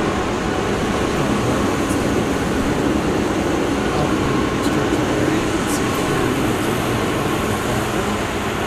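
Steady construction-site noise: heavy machinery running with a dense rumble, with a few faint clanks.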